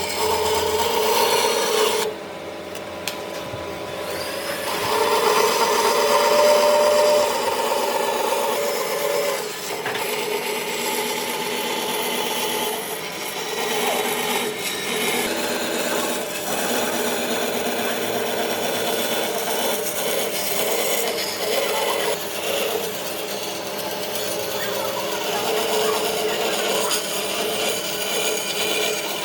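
Wood being worked with a tool: continuous rasping and rubbing against the wood.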